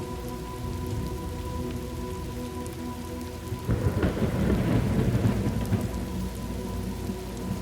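Steady rain falling, with a roll of thunder that breaks in suddenly about three and a half seconds in and rumbles for two to three seconds before easing back under the rain.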